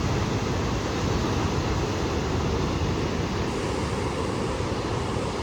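Sea surf breaking against rocky cliffs, mixed with wind rumbling on the microphone: a steady wash of noise with no separate events.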